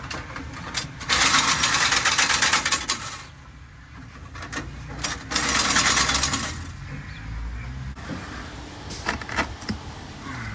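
Two bursts of rapid mechanical clattering, each about two seconds long, with a few lighter clicks between and after.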